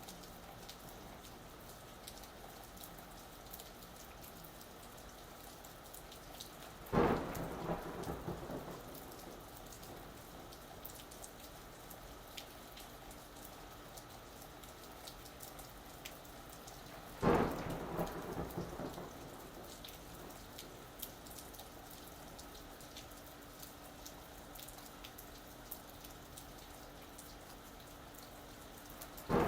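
Steady rain falling, with thunder breaking twice, about seven and seventeen seconds in: each a sudden loud clap that rumbles away over a couple of seconds. A third clap starts right at the end.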